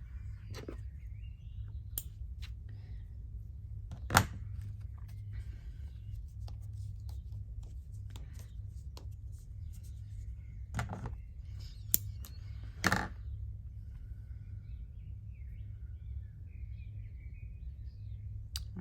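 Handling noises from hand embroidery: scattered small clicks and taps from thread, needle and scissors, with a sharp click about four seconds in and two more around twelve and thirteen seconds in. A steady low hum runs underneath.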